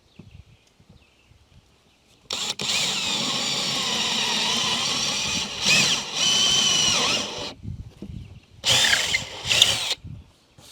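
Power drill boring a starter hole through a countertop for a sink cutout: one long run of about five seconds whose pitch wavers as the bit bites, then a short second burst near the end.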